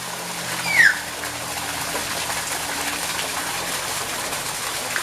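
Nias hill myna giving one loud, short whistle that slides downward, about a second in, over a steady rush of running water.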